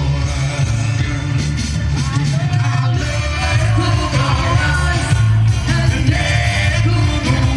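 Loud music with a singing voice and heavy bass, played through a large procession sound system.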